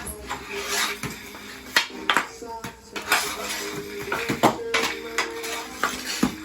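Hockey stick stickhandling on a hard floor: irregular sharp clacks of the blade striking the puck and floor, several of them loud.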